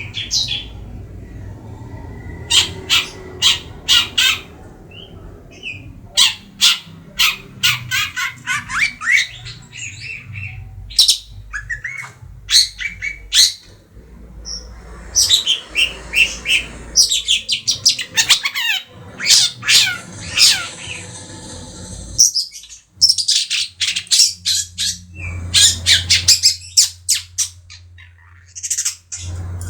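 Young long-tailed shrike (cendet) calling in quick bursts of short, harsh, scratchy notes, several a second, with brief pauses between the bursts and a few downward-sliding calls in the middle.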